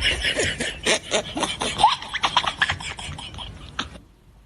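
Rapid, irregular scraping and rubbing noises, a quick run of short rough strokes that thins out and stops about four seconds in.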